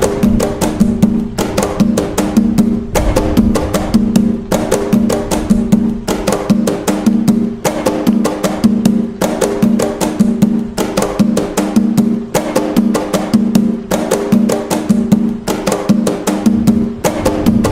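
Atabaque hand drums playing the nagô rhythm of Umbanda, a fast, steady, repeating pattern of many strikes a second with deep tones recurring in a regular cycle.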